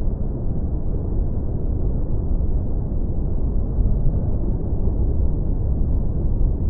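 Ocean surf breaking on a beach: a steady, deep rumble of waves with no let-up.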